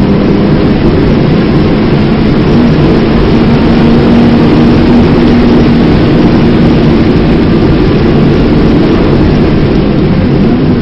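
Porsche 930 Turbo's air-cooled turbocharged flat-six, heard from inside the cabin at full throttle and high speed, a steady engine note climbing slowly under heavy wind and road noise. About nine seconds in the throttle eases and the note sags, then it picks up again near the end.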